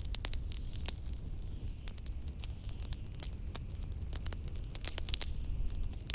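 Wood fire in a fireplace crackling, with frequent sharp pops and snaps, over a steady low rumble of blizzard wind.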